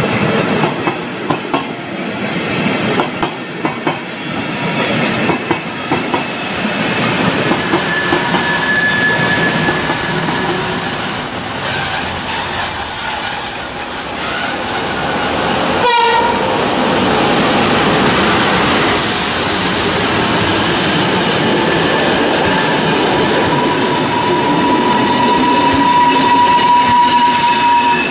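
Flåm Railway passenger train running on the rails: rhythmic wheel clicks over the rail joints in the first few seconds, then high steady wheel squeal that comes and goes, with a single sharp click about halfway through.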